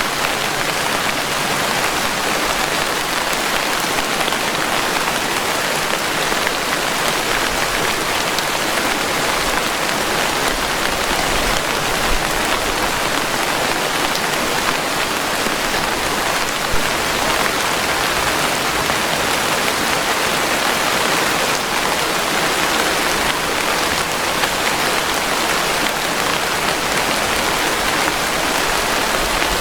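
Steady rainfall, an even, dense patter of drops with no let-up, with a couple of slightly louder single drop hits near the middle.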